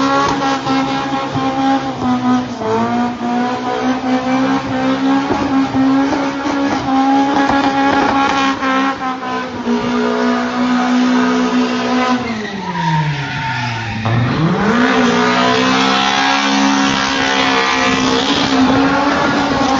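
Toyota KE70 Corolla's swapped-in Yamaha-developed Beams engine held at high revs while the car spins sideways on semi-slicks, tyres squealing. About twelve seconds in the revs drop sharply for a couple of seconds, then climb straight back up and hold.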